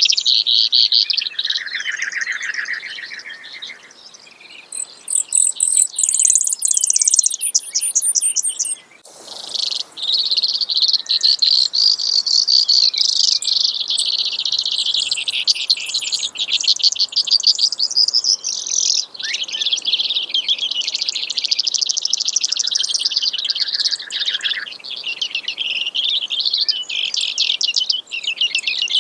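Brewer's sparrow singing: long, fast, high-pitched trills that keep changing speed and pitch, running almost without pause apart from a short break about a third of the way through.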